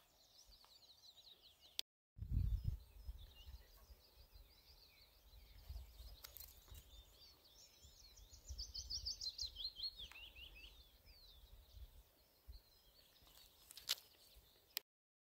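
Songbirds singing: scattered high chirps, then about eight seconds in a fast run of notes falling in pitch for about two seconds, over a faint low rumble. The sound cuts out completely for a moment about two seconds in and again just before the end.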